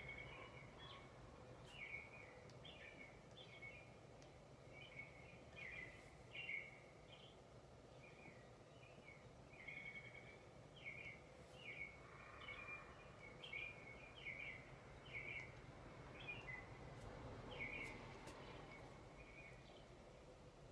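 Birds chirping quietly, many short overlapping chirps and tweets with no let-up, over a faint steady hum of ambient background.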